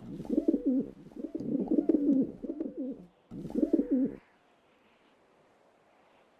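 Pigeon cooing: a run of low, wavering coos, a short pause, then one more cooing phrase that ends about four seconds in.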